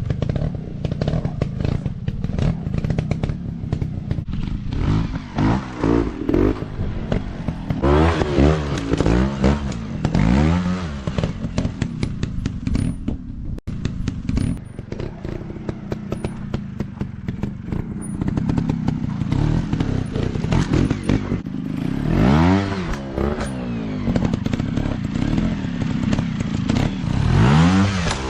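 Off-road dirt bike engines revving up and down again and again, the pitch rising and falling with each throttle blip, over a steady clatter of knocks.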